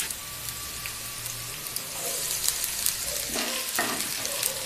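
Sliced shallots and ginger-garlic paste sizzling in hot oil in a nonstick frying pan. A spatula starts stirring them in the last second or so, adding a few scraping strokes to the steady sizzle.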